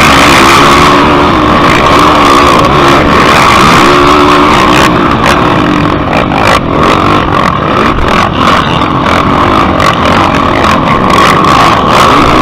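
Yamaha YFZ single-cylinder four-stroke ATV engine running loud at race pace, its pitch rising and falling as the throttle is worked, with knocks and clatter from about halfway through.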